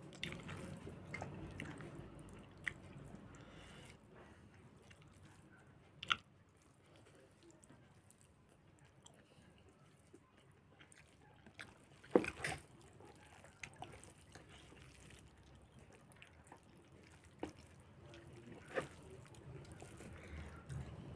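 Faint chewing and wet mouth sounds of a person eating rice and saucy meat, with a few sharp clicks scattered through, the loudest about six and twelve seconds in.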